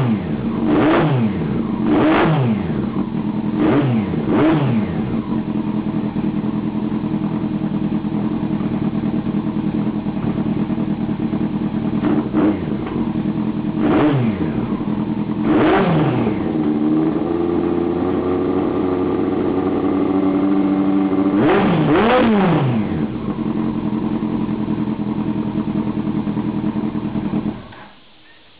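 1998 Yamaha R1's inline-four engine through a stubby carbon MotoGP-style exhaust, idling and blipped with quick throttle revs again and again. The revs are held up for a few seconds past the middle, then it is blipped once more and settles. The engine sound cuts off shortly before the end.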